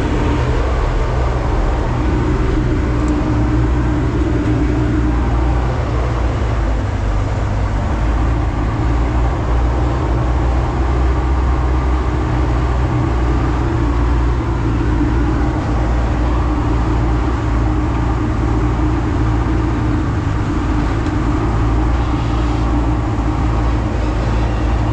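Hydraulic scrap-metal baler running steadily under load while it compresses a bale, a loud, even low hum with no breaks.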